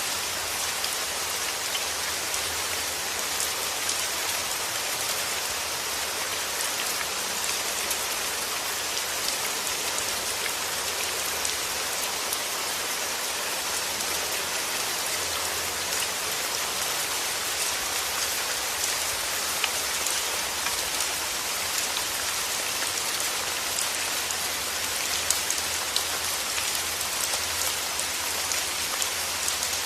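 Steady rain falling: an even hiss made up of many drop ticks, with a few louder drop hits scattered through.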